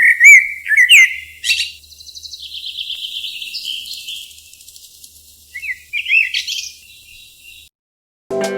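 High-pitched animal chirps and squeaks: a few short rising-and-falling calls, then a rapid trill of about two to three seconds, then more short calls. The sound cuts off suddenly near the end.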